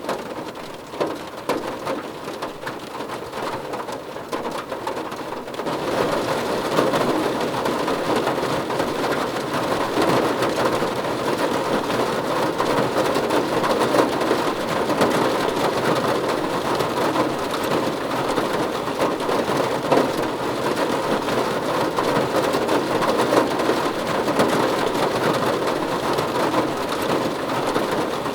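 Rain falling on a car roof, a dense steady patter of drops that grows heavier about six seconds in.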